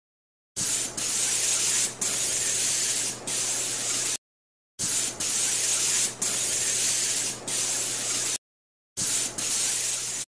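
Aerosol spray paint can hissing in long bursts with short breaks between strokes as a graffiti outline is sprayed. The hiss cuts off to silence twice, then resumes.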